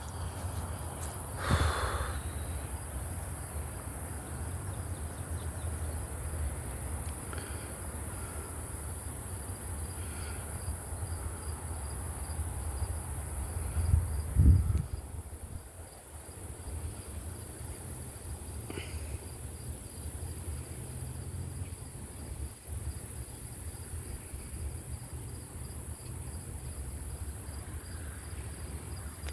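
Steady high-pitched chorus of crickets or other insects, over a low rumble, with two brief bumps: one near the start and one about halfway through.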